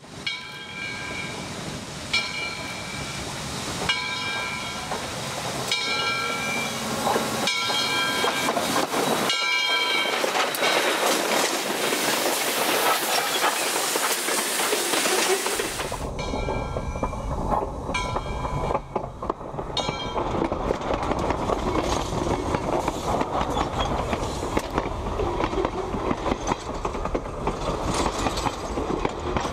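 A locomotive's multi-chime air horn sounds in a string of roughly one-second blasts. A loud, even hiss follows for several seconds, then a train rumbles past with its wheels clacking over the rail joints.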